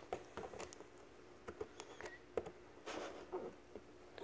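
Scissors snipping packing tape on a cardboard box, with faint scattered clicks and a soft rustle of tape and cardboard about three seconds in.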